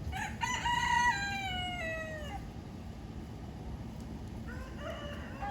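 Rooster crowing once, a call of about two seconds that falls in pitch at its end. Another long call starts near the end.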